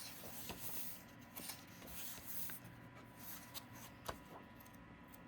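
Faint paper rustling as the pages of a bird-watching journal are turned and handled, with a few soft ticks and taps; the sharpest comes about four seconds in.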